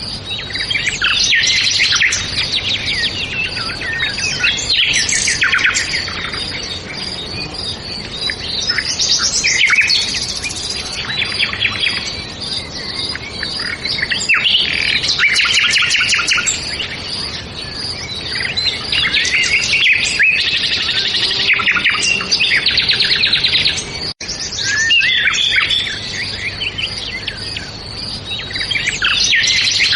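A chorus of several songbirds chirping and singing together, many overlapping calls and trills, with a momentary break about three-quarters of the way through.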